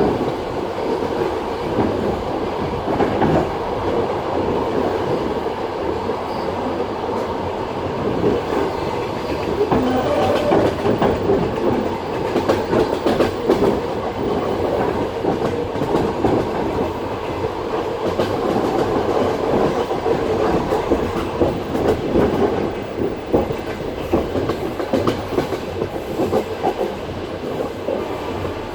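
Passenger train running at speed, heard from inside the carriage: steady rumble of the running gear with the continual clatter of wheels over the rail joints.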